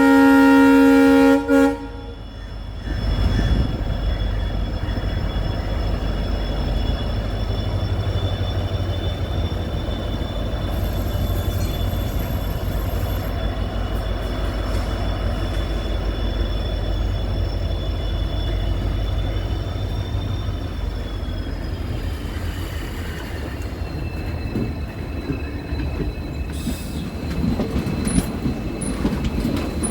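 A diesel locomotive's horn sounds one loud chord for about two seconds, from a WDP4B hauling a passenger train. Then the running train keeps up a steady low rumble with a thin high whine. About two-thirds of the way through, the rumble eases and the whine slides down in pitch.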